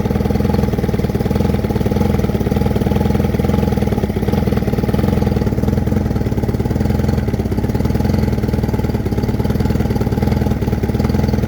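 Evinrude 90 Ocean Pro two-stroke V4 outboard motor running steadily at an even speed. It has just been rebuilt with all new internals, crankshaft included, and sounds pretty angry.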